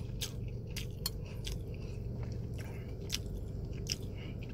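Close-up chewing of a mouthful of fried rice (nasi goreng), with small irregular clicks over a steady low hum.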